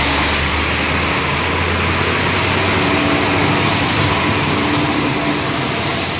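Road traffic on a rain-wet road: a steady hiss of tyres through water, with a low engine rumble from a passing vehicle that fades about a second in.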